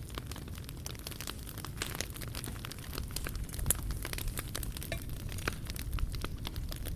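Wood fire burning in a fire pit: a steady crackle of frequent sharp pops and snaps over a low rumble of the flames.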